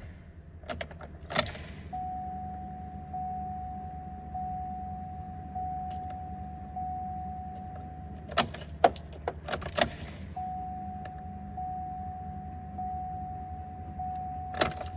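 Denali truck's dash warning chime ringing, one steady tone pulsing about once a second, with the ignition keys jangling and clicking in between; a faint low hum underneath.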